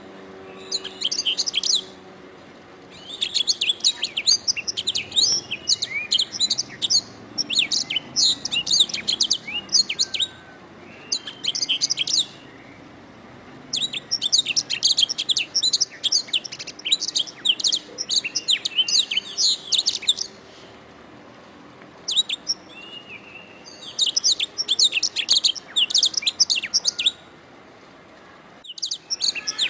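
Domestic canary singing: fast, high trills and chirps in phrases a few seconds long, broken by short pauses, with one long phrase through the middle.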